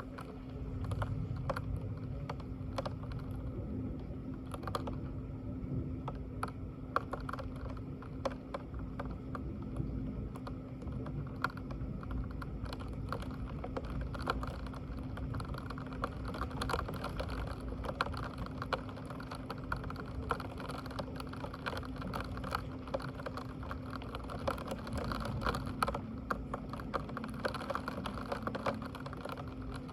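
Computer keyboard typing and clicking in irregular bursts over a steady low electrical hum.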